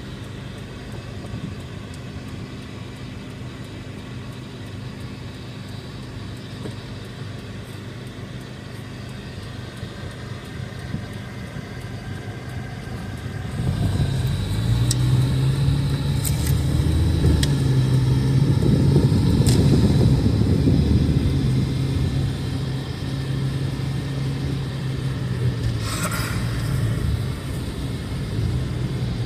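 A car's engine and road noise while driving. It grows clearly louder about halfway through, when a steady engine hum comes in over the rumble.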